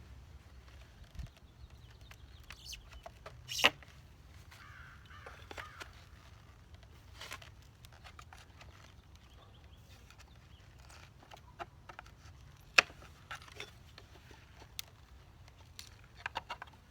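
Scattered clicks and knocks of bee packages and their strap being handled and unstrapped, with two sharper knocks standing out, one a few seconds in and one past the middle.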